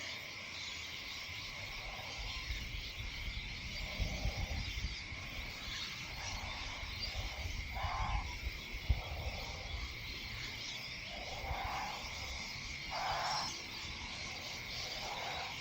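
Outdoor evening ambience: a steady, high insect drone, with a few short low calls scattered through and low rumble from wind on the microphone for several seconds in the middle.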